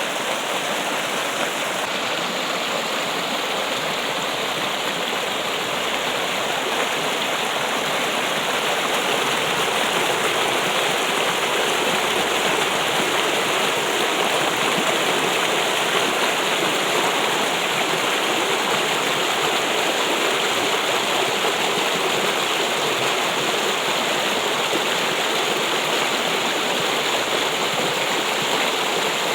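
Steady trickling and rushing water, an even flow with no breaks.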